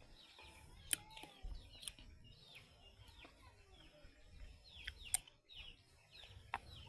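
Small birds chirping over and over, many short falling chirps, faint, with a few sharp clicks, the loudest about a second in and near the middle.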